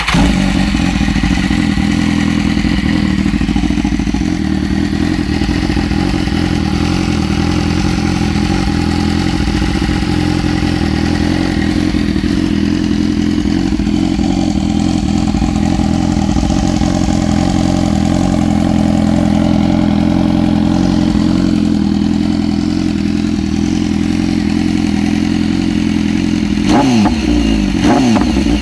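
2015 BMW S1000RR's inline-four engine idling steadily through an SC-Project aftermarket exhaust, then revved briefly near the end.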